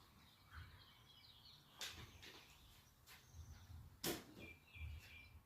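Near silence with faint bird chirps in the background and two light knocks, the second and louder one about four seconds in.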